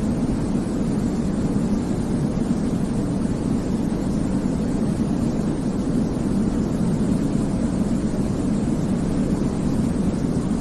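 Steady baby-sleep 'white noise', deep and low in pitch rather than hissy, running evenly with no changes.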